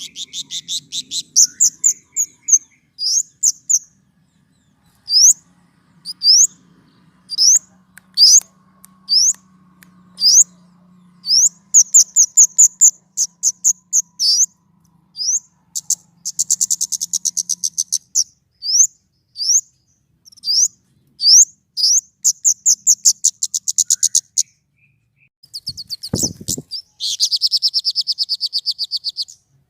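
A small songbird calling: sharp, high, rising chirps about a second apart, broken by fast rattling runs of repeated notes. A brief low thump comes near the end.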